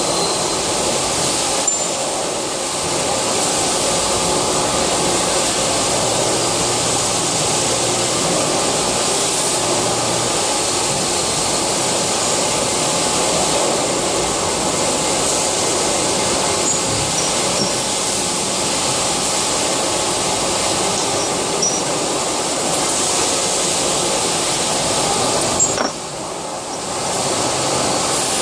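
CNC lathe running: a steady machining noise with faint steady whines and a few light clicks, dropping off briefly near the end.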